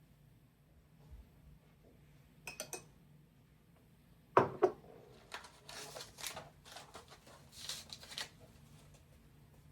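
Kitchenware being handled during cooking: a few light clinks, two sharp knocks about four and a half seconds in, then a run of short scraping sounds.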